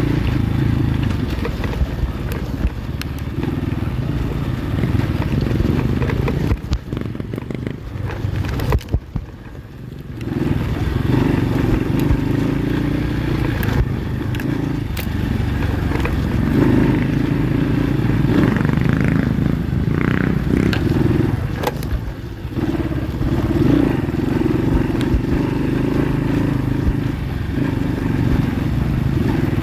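Pit bike engine running under changing throttle while riding a rough trail, with revs rising and falling. It drops back for a few seconds around the eighth second before pulling again, and scattered knocks and clatter from the bike over the ground sound through it.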